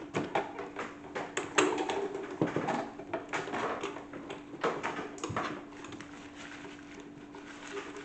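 Homemade salad-spinner toy washing machine running with a steady hum, with irregular plastic clicks, knocks and clattering as loose broken blade pieces are knocked about inside it.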